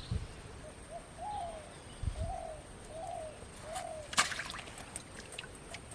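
A bird calling a run of short notes that rise and fall, five in about three seconds. A sharp click sounds about four seconds in.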